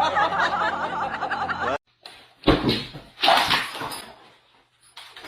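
A person laughing in a rapid, wobbling run of pitch that cuts off abruptly. After a short silence come a few short, rough noisy sounds.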